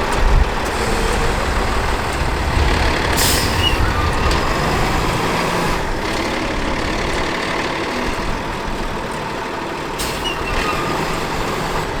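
Six-wheel water truck's diesel engine running, its low rumble easing about halfway through, with two short air-brake-like hisses, about three seconds in and near the ten-second mark.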